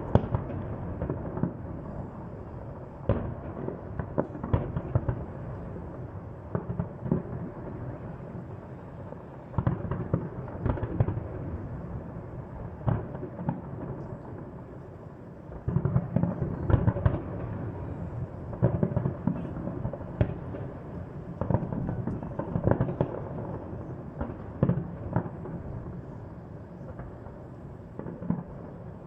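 Fireworks display: repeated volleys of shell bursts booming and crackling, heard from a distance with a continuous rumble between the bangs, denser at a few points.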